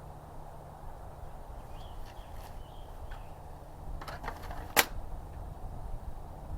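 A few short clicks and knocks, with one sharp snap near the middle that is the loudest sound, over a steady low background rumble.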